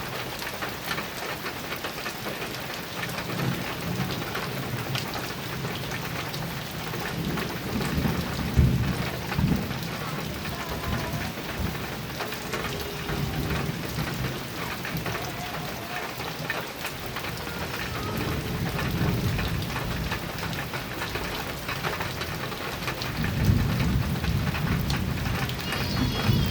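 Heavy rain pattering on a metal roof, with low thunder rumbling several times; the loudest rumble comes about a third of the way in.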